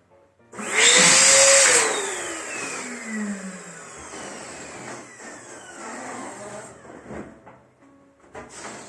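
Electric balloon inflator blowing up a latex balloon. It switches on with a loud rush about half a second in, then its motor winds down with a steadily falling pitch over several seconds. It starts again near the end.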